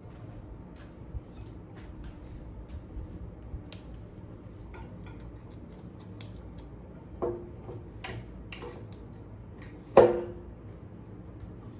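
Small metal parts and hand tools being handled on a scooter, with scattered light clicks and taps. Two louder metallic clinks ring briefly, about 7 and 10 seconds in, over a steady low hum.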